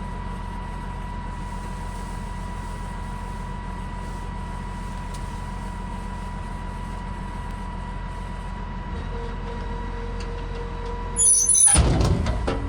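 A vehicle engine running steadily with a low hum. About eleven seconds in, a sudden loud clatter of knocks with a brief hiss.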